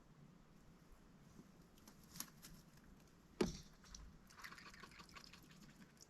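Mallard duck dabbling with its bill in a water bowl: a sharp knock about three and a half seconds in, then about a second of small splashes and drips.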